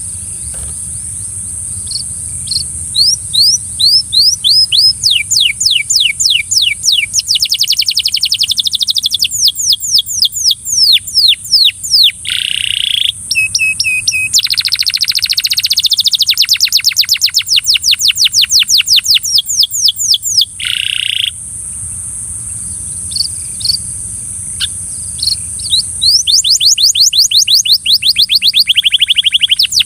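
Belgian canary singing in long rolls of rapid, steeply falling notes, about ten a second, broken by short buzzy phrases and a brief lull, over a steady high hiss.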